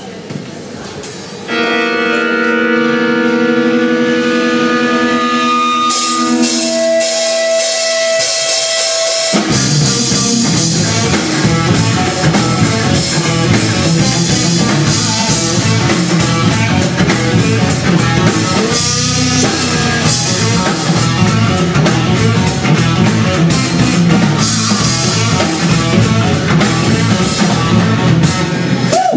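Instrumental intro of a rock song: held, steady chords to begin with, then the full band with drum kit and guitar comes in about nine seconds in and plays on.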